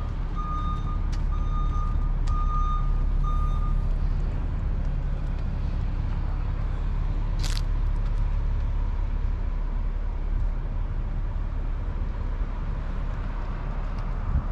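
A heavy truck's backup alarm beeps about once a second over its running engine, then stops about four seconds in, a sign the vehicle is reversing. The engine keeps running, and a short hiss comes about halfway through.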